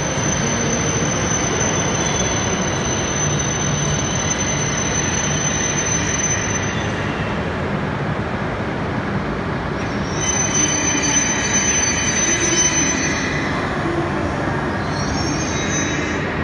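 Coupled E5- and E6-series Shinkansen train running slowly alongside the platform and braking to a stop, a steady rolling rumble under a thin high whine. The whine drops out about seven seconds in and returns briefly, and squealing tones come in toward the end as the train slows.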